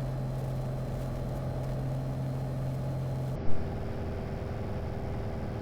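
Light aircraft's piston engine and propeller droning steadily in the cockpit during the climb. A single short loud knock comes about three and a half seconds in, after which the drone's tone changes.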